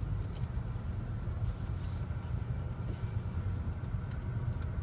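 Steady low rumble of a car creeping forward at idle, heard from inside the cabin, with a few faint clicks.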